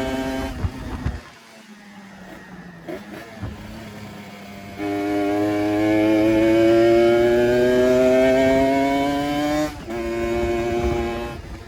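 Kawasaki Ninja RR two-stroke motorcycle engine running and being revved. It holds high revs, falls back to a low idle after about half a second, then from about five seconds in rises slowly to a long, loud high rev. The revs drop sharply near ten seconds and then hold steady again.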